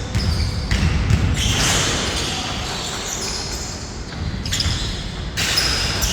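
Basketball being dribbled and bounced on a court during a game, with players moving around it.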